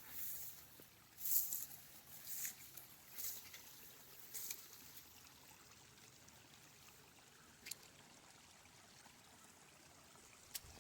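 Shallow stream water trickling over rock. In the first few seconds a row of about five short crunching steps comes roughly once a second.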